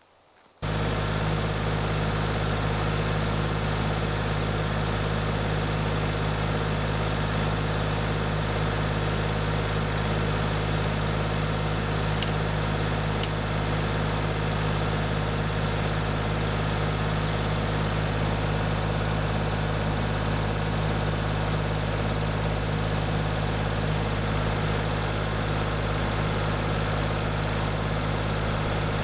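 A small engine running at a steady speed, starting abruptly about half a second in and holding an unchanging low hum.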